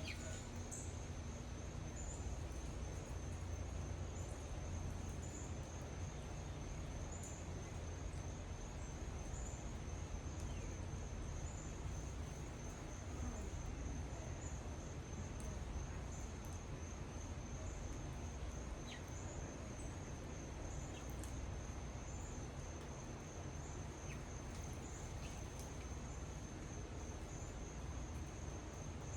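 Insects trilling steadily in one continuous high-pitched note, over a steady low rumble.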